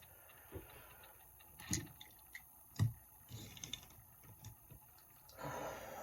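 Handling noises from a small die-cast toy car being picked up and turned: a few scattered light knocks and clicks, the sharpest about three seconds in, and a short swish near the end.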